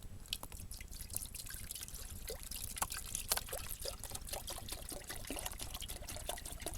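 Water being poured into a metal army mess tin, trickling and splashing unevenly, with scattered short clicks throughout.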